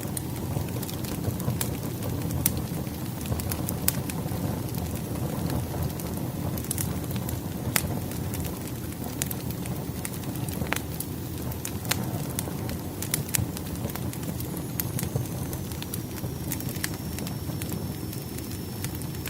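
Firewood burning in a fireplace: a steady low rumble of the flames with frequent sharp, irregular crackles and pops of the wood.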